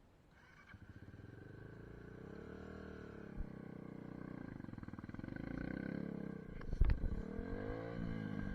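SSR 150 dirt bike's single-cylinder four-stroke engine running, growing louder over the first few seconds, its pitch rising and falling as the throttle is worked. A sharp thump about seven seconds in.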